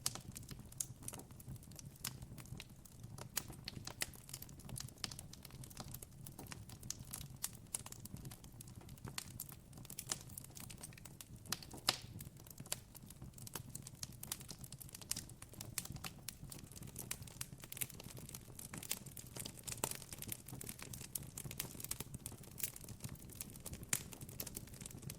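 Campfire crackling: a steady scatter of small sharp pops and snaps from burning wood over a faint low hum.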